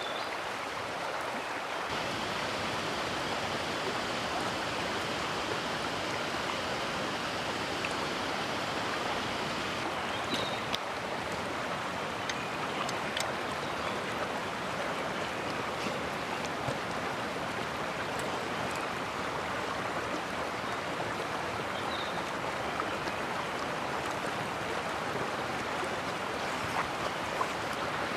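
Mountain stream flowing over rocks: a steady rush of running water, with a few faint ticks in it.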